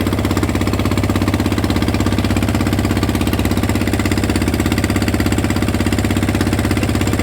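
An engine running steadily with a fast, even pulse and a strong low hum.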